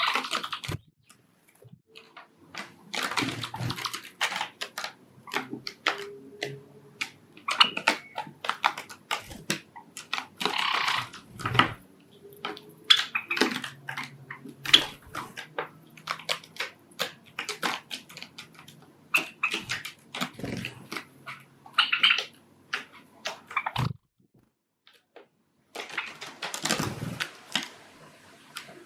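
Pet Java sparrows scuffling and pecking: rapid irregular beak clicks and taps with short bursts of rustling.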